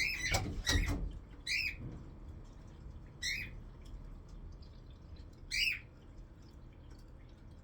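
Pet parrot squawking: about five short, sharp calls spaced irregularly over the first six seconds, with a thump near the start.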